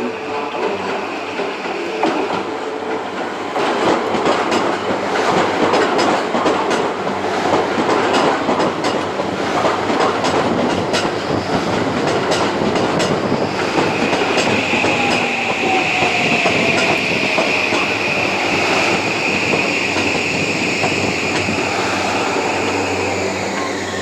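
An electric commuter train running on the rails with wheel clatter. From a little past the middle until just before the end, a steady high-pitched wheel squeal.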